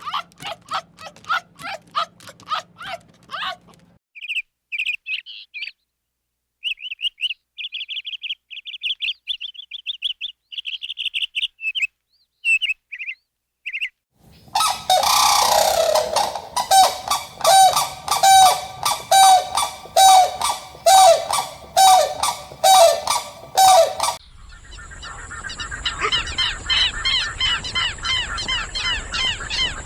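Birds calling in several short segments. First come quick repeated chirps, then high twittering. Next, about halfway in, a run of loud honking calls repeats about once a second for some ten seconds, and near the end softer chirping birdsong plays over a steady high-pitched tone.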